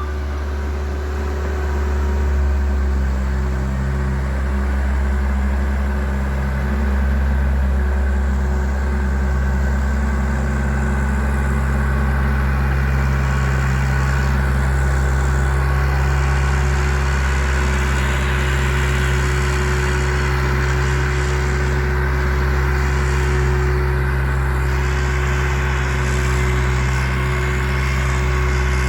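Bobcat loader's engine running steadily under work, with a constant low drone and no change in speed.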